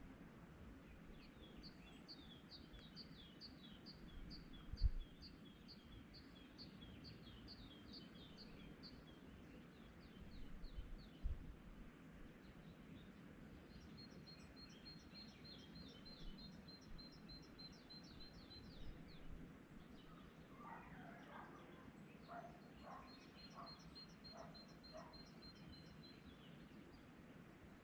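Songbirds singing quietly in the morning: a bird repeats fast runs of high notes in three spells, and partway through a second, lower-pitched bird calls in a short string of notes. Two brief low thumps sound near 5 s and 11 s.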